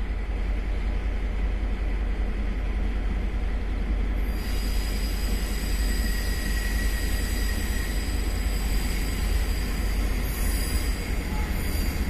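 Freight train led by E200-class electric locomotives pulling into the station, a steady low rumble. A high, thin squeal of the kind wheels or brakes give joins about four seconds in.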